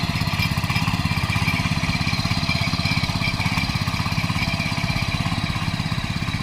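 Double Eagle power weeder's 7HP air-cooled four-stroke petrol engine running steadily, with an even, rapid beat.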